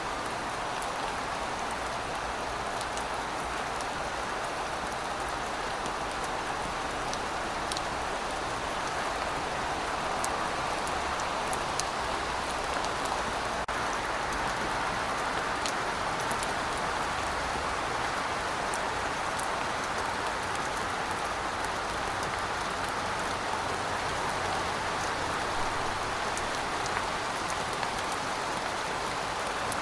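Heavy rain falling steadily, a continuous hiss with scattered individual drop ticks.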